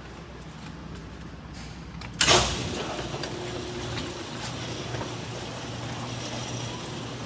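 Garage door opener running a door open: a sudden loud clunk about two seconds in as the door jolts into motion, then a steady mechanical rumble as it travels, the door scraping as it goes.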